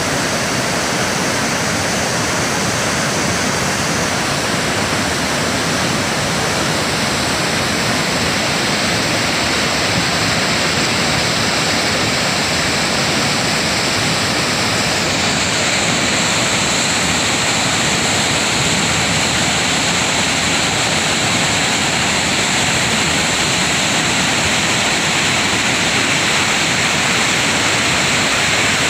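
Lohit River rushing: a loud, steady roar of fast-flowing water.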